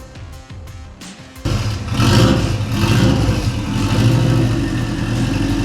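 Background music for about the first second and a half, then a Subaru EJ205 flat-four engine cuts in abruptly and runs steadily and loudly.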